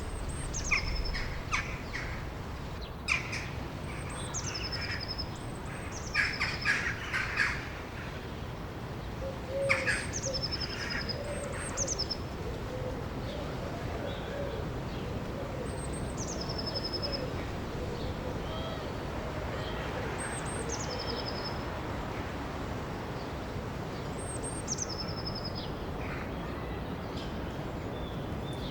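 Wild birds singing over a steady rush of river water. One bird repeats a short high note that drops to a lower held whistle every few seconds, and harsher chattering calls come in bursts during the first ten seconds or so.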